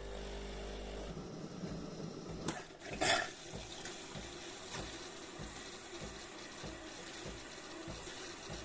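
De'Longhi Dinamica Plus espresso machine starting a cappuccino. A short pump hum stops about a second in, then a sharp clunk comes about three seconds in. After that, water and steam run through the milk frother system with a steady watery hiss and soft low pulses a few times a second.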